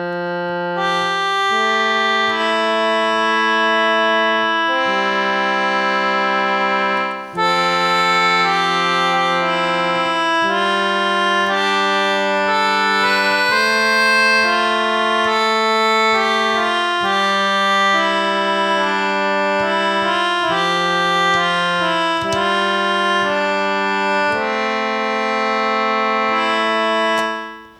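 Concertina playing slow, sustained reedy chords, the notes changing every second or two, with a short break about seven seconds in.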